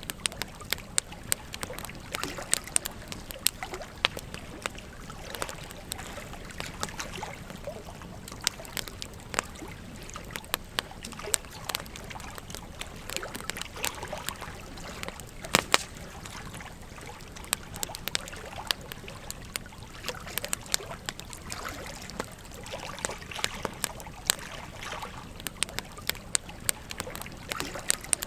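Campfire crackling, with frequent irregular sharp pops, over the steady babble of a gentle stream.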